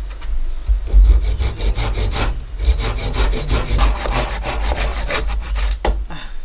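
Hand saw cutting through wood in fast, even strokes, starting about a second in and stopping near the end.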